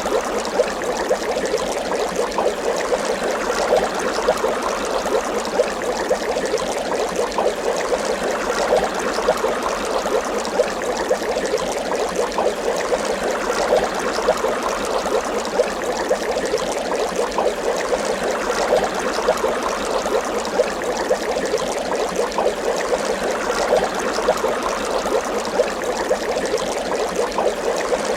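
Water bubbling continuously, a dense steady stream of small bubble pops and gurgles.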